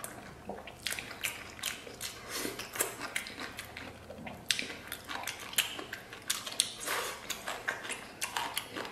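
Close-up mouth sounds of a man chewing a piece of spicy braised sheep-head meat: irregular wet smacks and lip clicks. The meat is a little tough.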